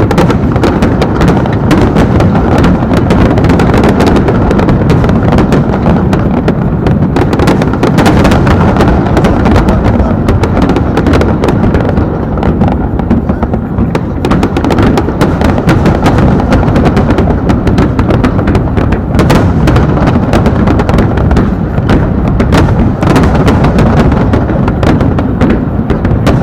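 Aerial fireworks going off in a dense, continuous barrage: many loud booms and cracks overlapping over a constant low rumble, with no pause.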